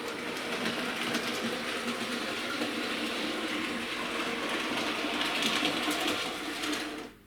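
Model Jubilee class locomotive running along the track, its small electric motor and wheels on the rails making a steady mechanical hum, which stops near the end as the loco is halted.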